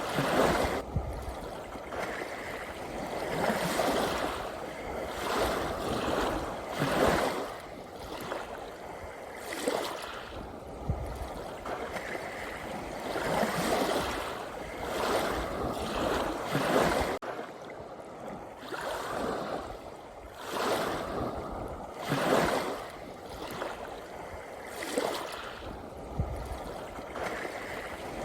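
Ocean waves washing in and drawing back, a rushing noise that swells and falls every two to three seconds. The level drops abruptly about 17 seconds in.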